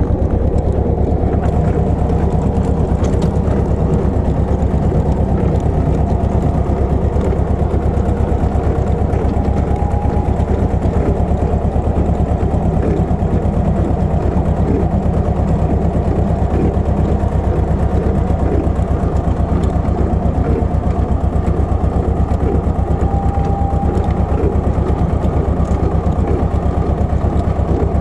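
Pasquali 980 EX small tractor's engine running steadily, a continuous even throb.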